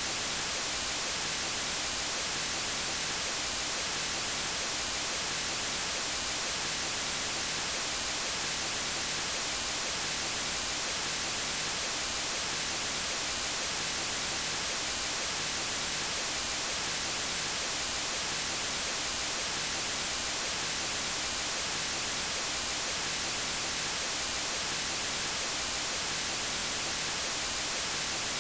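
Steady white noise: an even hiss spread across all pitches, holding one constant level with no changes.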